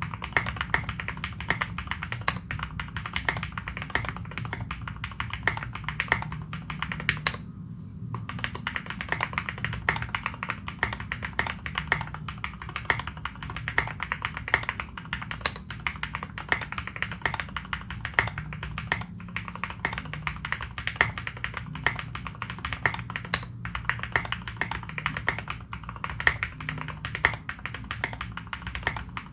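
Continuous typing on a KBD75v2 mechanical keyboard with fully modded Cherry Retooled Black linear switches and Domikey Dolch keycaps: a dense stream of keystrokes, broken by a few short pauses.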